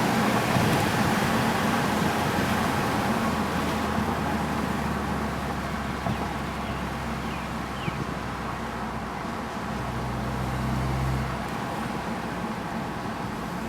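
2012 Audi A4's turbocharged 2.0-litre four-cylinder running through an aftermarket stainless turbo-back exhaust with a high-flow cat, a steady engine note that slowly gets quieter. A low drone in it drops away about eleven seconds in.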